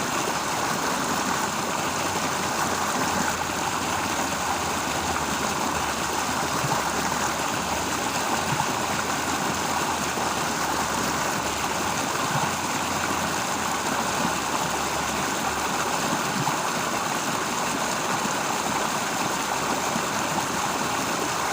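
Steady rush of flowing stream water, with a faint low hum underneath that fades out about three quarters of the way through.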